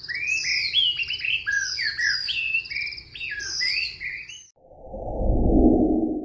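Birdsong: a quick run of chirps and sliding warbled notes that stops about four and a half seconds in. It is followed near the end by a low rushing swell of noise.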